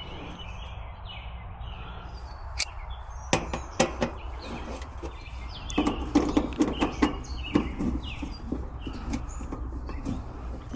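Clicks and knocks of hands working in an air conditioner's electrical compartment, connecting wires to a replacement run capacitor, busiest about six to seven and a half seconds in. Birds chirp throughout.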